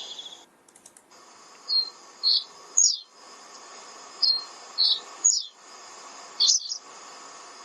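A bird calling in phrases of three short, high notes, each sliding downward, repeated three times with about a second and a half between phrases; the last phrase is shorter.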